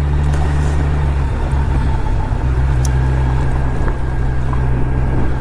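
Kawasaki Z900's inline-four engine running steadily while the bike is ridden, with rushing wind noise.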